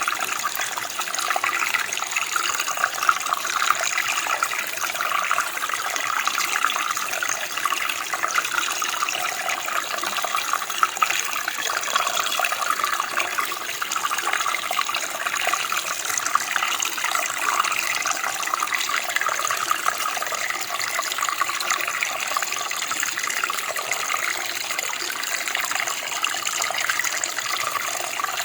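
Running water from a stream or creek, a steady bright splashing and gurgling flow that does not let up.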